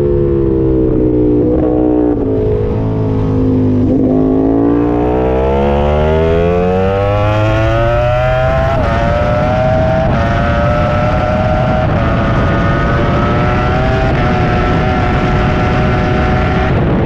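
Ducati superbike engine heard onboard at racing pace: it slows with a few stepped downshifts over the first four seconds, then revs climb steadily as it accelerates hard, and from about nine seconds it runs near the top of the rev range with quick upshifts, each a brief dip in pitch, about every two seconds.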